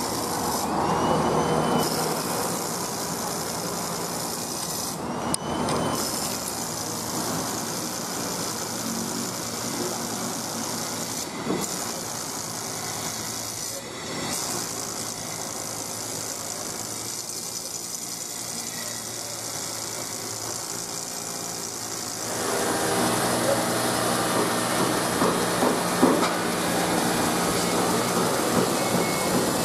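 Southern electric multiple-unit trains moving along station platforms: a steady running noise of wheels and traction with some hiss. About 22 seconds in it grows louder, with a steady electric whine and a few clicks, as a train moves along the near track.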